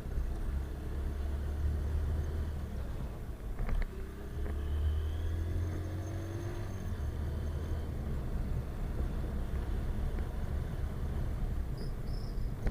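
Motorcycle being ridden along a road: the engine runs under a heavy low wind rumble on the microphone, its note rising for a few seconds around the middle.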